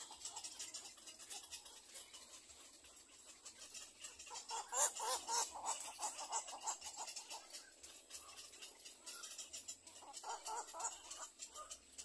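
Birds calling: wavering pitched calls from about four to seven seconds in and again near the end, over a fast, fine, high-pitched ticking throughout.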